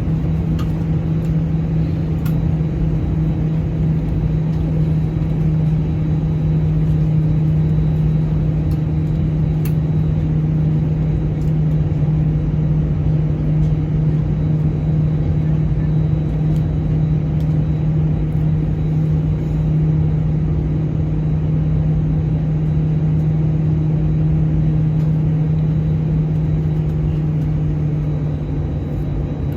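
Steady jet engine drone and rumble of an Airbus A320-200, heard from inside the cabin during takeoff, with a strong constant low hum.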